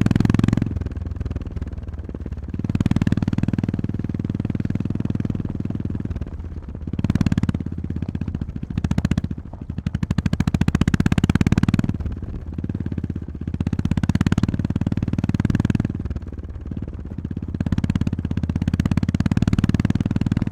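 Honda GB350S single-cylinder engine running under a rider's throttle, the power repeatedly opened and closed so the engine note swells and drops every couple of seconds.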